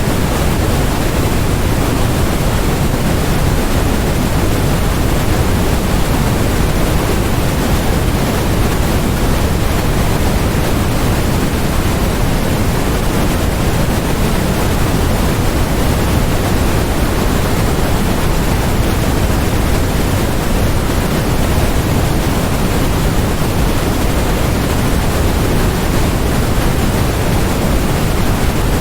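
Steady electronically generated white noise: an even, unchanging hiss with no breaks, fuller in the low end.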